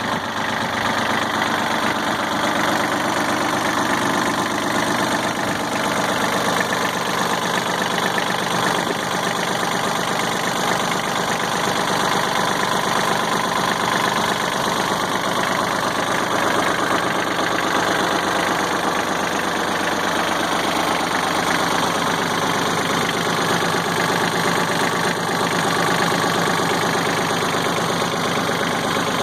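John Deere 4100 compact tractor's three-cylinder diesel engine running steadily at an even speed.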